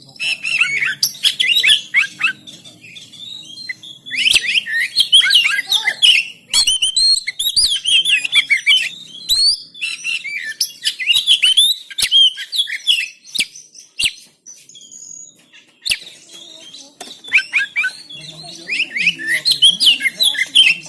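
Oriental magpie-robin (kacer) singing a loud, fast, varied song of whistles and rapid trills in several bursts, with short pauses a few seconds in and again past the middle.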